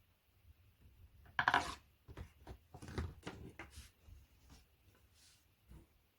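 Knocks, clicks and rattles of flat-pack furniture parts and fittings being handled: a louder rattle about a second and a half in, then a string of lighter knocks.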